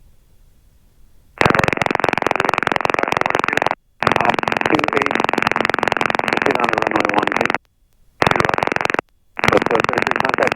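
Headset radio/intercom audio cutting in and out: four bursts of muffled, narrow-band noise that each switch on and off abruptly, as when a mic or radio channel keys open.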